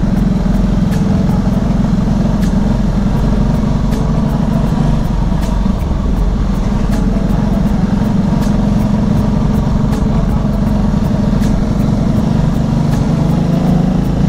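Motorcycle engine running at a steady cruising speed, its note holding level, with wind noise rushing over the microphone.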